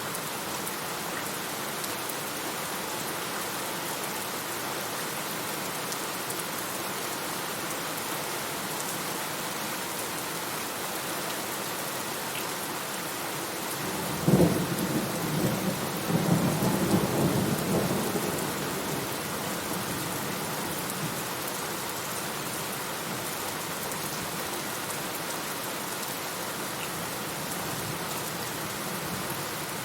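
Steady heavy rain falling, with a clap of thunder about halfway through: a sharp crack followed by a rumble that fades over about four seconds.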